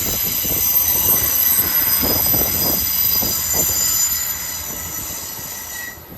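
Train wheels squealing against the rails as a train moves slowly through the station: several high steady squeals over a low rumble of wheels and running gear. The sound fades after about four seconds.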